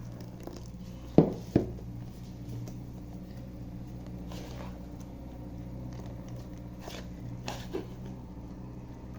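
Two sharp knocks of kitchen utensils, a second and a second and a half in, then a few faint clicks, over a steady low hum.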